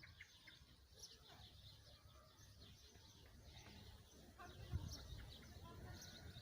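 Small birds chirping faintly and intermittently, with a low rumble that swells briefly about three-quarters of the way through.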